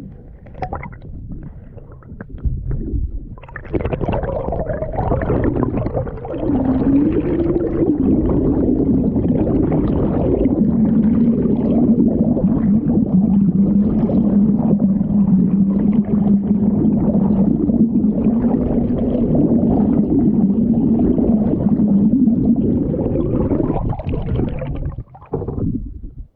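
Water gurgling and rushing against a GoPro camera mounted low on a small boat, sounding muffled, with a low wavering drone. It starts a few seconds in and stops near the end.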